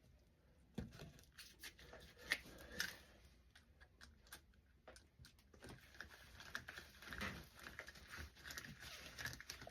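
Faint scattered clicks and knocks with light rustling: a plumbing part being handled and fitted back on by hand.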